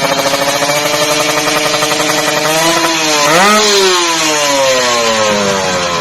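Kawasaki Ninja R two-stroke single-cylinder motorcycle engine through a bamboo-style racing exhaust, held at steady revs, then blipped up sharply about three seconds in and slowly falling back in pitch.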